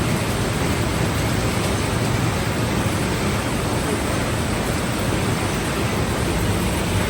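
Tea-processing machinery running: a steady, loud rushing noise with a low hum underneath.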